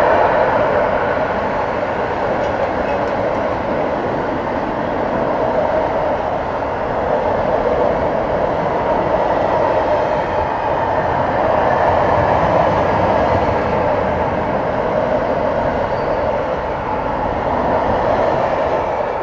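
Freight train of open-top gondola wagons rolling past, its wheels running on the rails in a steady, loud noise with no clear rhythm.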